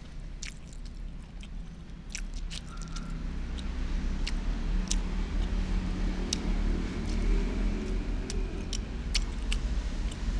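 Close-up eating sounds: a person chewing and biting food, with scattered sharp mouth clicks and smacks. A low rumble runs underneath and grows louder after about four seconds.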